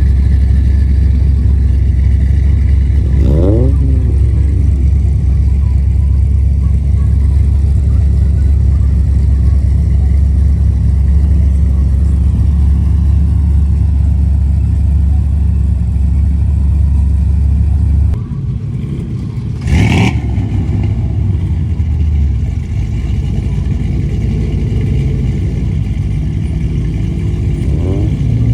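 Car engines running, with a steady low rumble and a couple of brief rev-like pitch glides. The rumble drops away abruptly partway through, and a single sharp knock follows shortly after.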